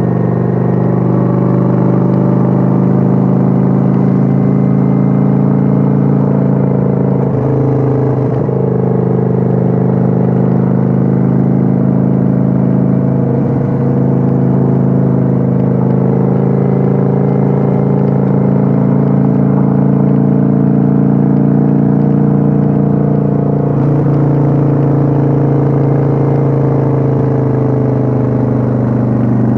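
Kawasaki Vulcan 900's 903 cc V-twin engine running at a steady cruise, heard from on board the motorcycle. The engine note rises and falls a little with the throttle, with brief changes about a quarter of the way in and again near the end.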